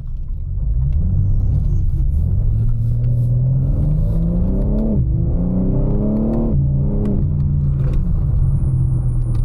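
2024 BMW M4 Competition's twin-turbo straight-six under full-throttle acceleration. The engine note climbs for about four seconds, drops sharply at an upshift about five seconds in, climbs again briefly and drops at a second upshift, then runs steadily.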